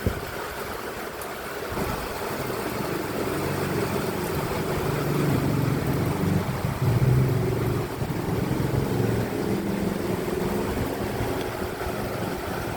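Steady rain and wind noise on the microphone, with a low engine drone coming in about three seconds in and loudest around the middle.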